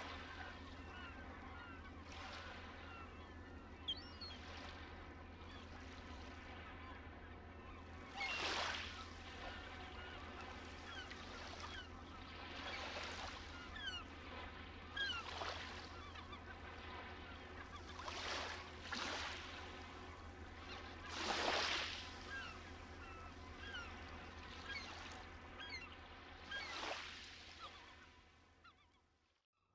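Sea waves surging and breaking on a rocky, pebbly shore every few seconds, with seabirds calling over a steady low hum. The sound fades out near the end.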